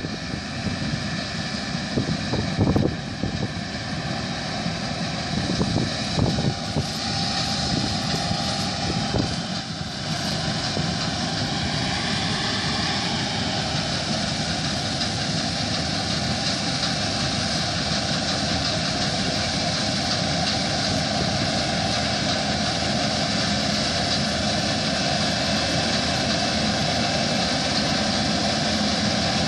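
New Holland CR8080 combine harvester running steadily. Irregular knocks and gusts come in the first ten seconds, then the machine settles into an even, unchanging noise.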